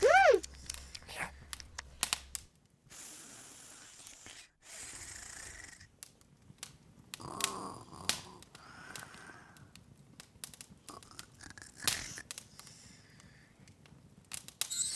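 Open fire crackling, with irregular sharp pops and soft hissing stretches between them. It opens with a brief high cartoon-voice squeak that drops quickly in pitch, the loudest sound here.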